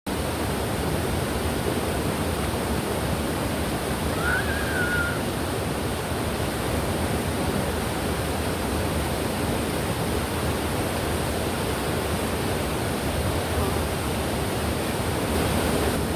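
Mountain stream rushing steadily over rocks, with a short whistle-like note about four seconds in.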